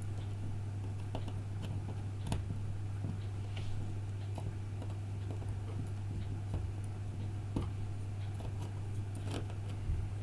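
Light, irregular clicks and ticks of small repair tools and parts being handled on an iPhone 5 during reassembly, over a steady low hum.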